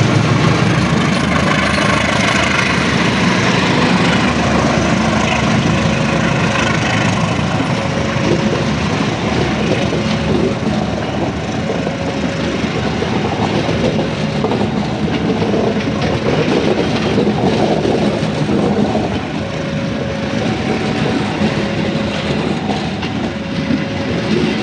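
KA Majapahit passenger train running on the rails, a steady rumble with wheel clatter, as it nears the end of its run into the station. Faint short tones recur from about six seconds in.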